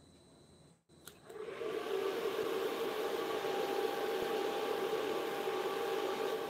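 An electric motor in a workshop tool switches on with a click and spins up, its pitch rising briefly, then runs steadily with a whirring whine.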